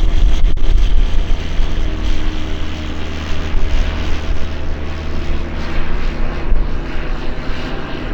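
Airplane engine noise, a steady loud drone with a deep rumble underneath and faint steady tones in it.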